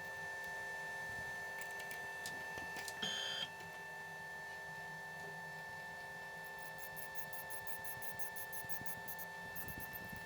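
Milling machine running with a steady motor hum. A short high squeal comes about three seconds in, and a rapid light ticking later on.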